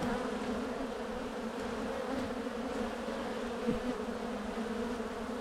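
A mass of honey bees buzzing in a steady hum from an open hive during a frame inspection.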